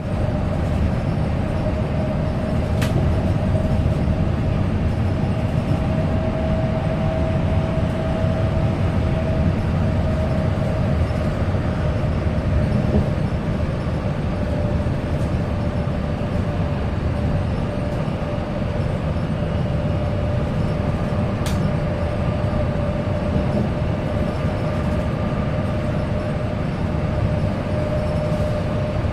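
Steady cabin noise inside a moving bus: a low rumble from the engine and tyres on the road, with a steady whine running through it. Two brief ticks, about three seconds in and past the two-thirds mark.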